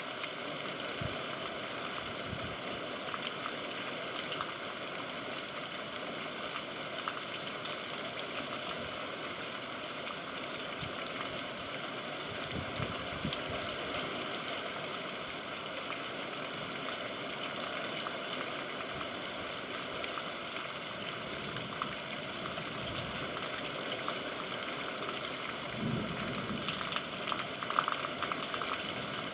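Steady rain falling, an even hiss of water with many fine ticks of single drops, and a brief low sound near the end.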